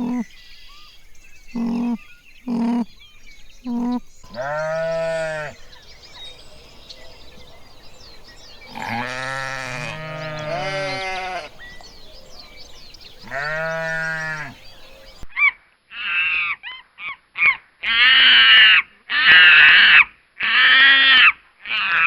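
Goats or sheep bleating: several short bleats, then longer drawn-out bleats, two animals overlapping once. About two-thirds of the way in the sound cuts to a run of louder, higher-pitched, rougher animal calls.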